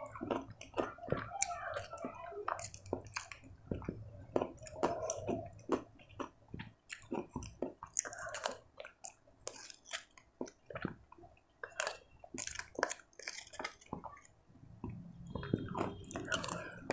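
Close-miked chewing, with many irregular mouth clicks and smacks.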